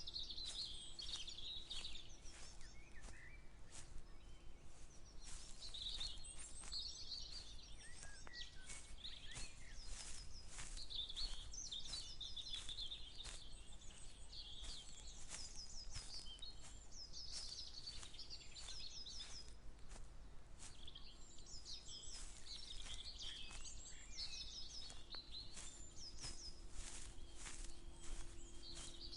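Several songbirds chirping and singing in repeated quick phrases, over a walker's footsteps, which sound as frequent short clicks.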